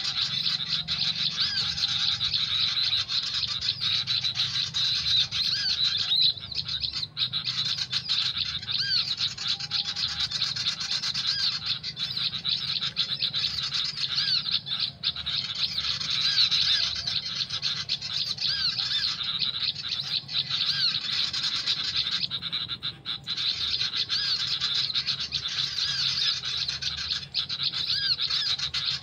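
Dense, unbroken chirping of small birds: many quick, repeated arching calls running together, typical of an MP3 bird-call recording played through a speaker as a lure for bird-liming. A low steady hum lies underneath.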